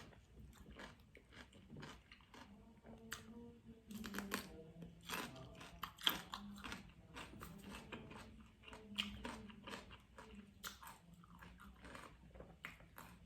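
Raw cucumber being bitten and chewed, with a steady run of crisp crunches.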